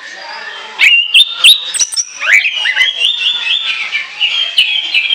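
Orange-headed thrush singing a loud, varied song. After a quieter first second come rapid phrases of sharp notes and rising whistles, then a long run of quick repeated notes.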